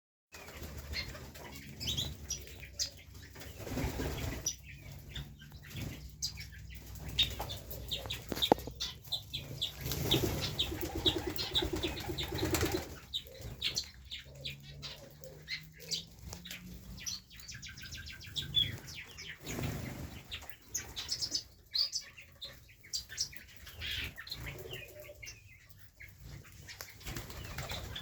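Pigeons' wings flapping in short bursts, with many short bird chirps and calls, typical of pigeons and quails gathering at feeding time.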